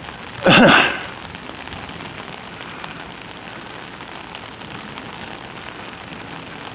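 Steady rain falling, an even hiss with fine ticks of drops. About half a second in there is a brief loud pitched sound lasting under half a second.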